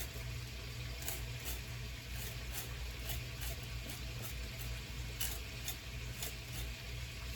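Quiet kitchen sounds: faint, irregular light ticks and crackles over a low steady hum.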